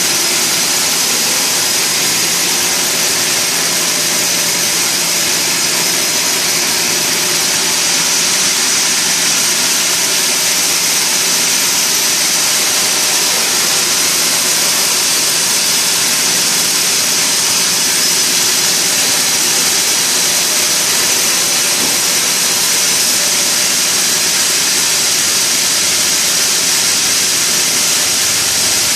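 Sawmill machinery running steadily: a loud, even hiss that stays the same throughout, strongest in the high range.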